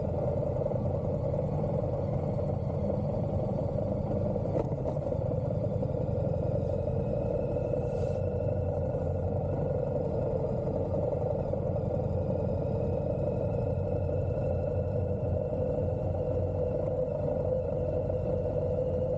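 2022 Indian Challenger Dark Horse's V-twin engine running steadily while riding at low speed, with a constant low rumble.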